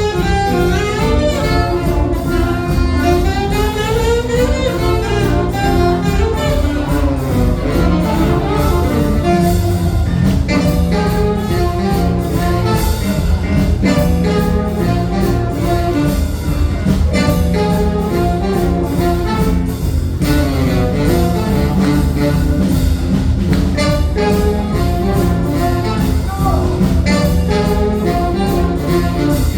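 Live jazz band playing an instrumental number, with horns carrying the melody.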